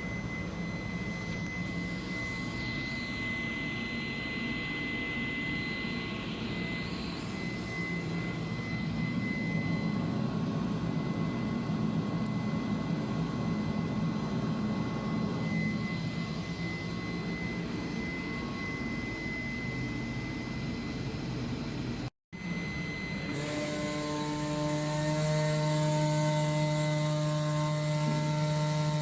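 Comagrav Digi Corsa CNC flatbed cutter running while cutting rubber sheet: steady machine noise with a high steady whine. About two-thirds of the way through the sound briefly cuts out, then returns as a louder steady hum with several held tones.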